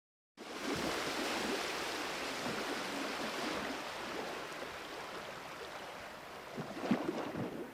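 Waterfall water rushing as a steady, even noise, starting about half a second in, with a few brief swells near the end.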